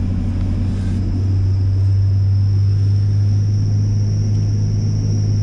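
Inside a Class 180 diesel multiple unit: the steady low rumble of its underfloor diesel engine, with a thin, steady high whine above it.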